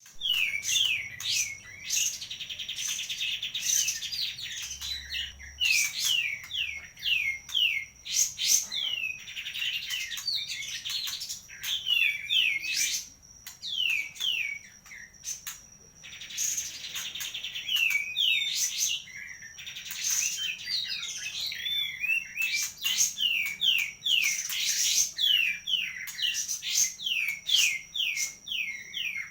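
Caged kapas tembak songbird singing continuously: a string of quick downward-sliding whistled notes broken by fast rattling trills, with a steady thin high tone behind it.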